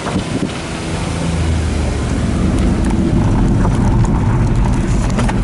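Daihatsu Hijet kei truck driving, its engine running steadily and its pitch shifting a couple of times, with scattered light knocks and rattles over it.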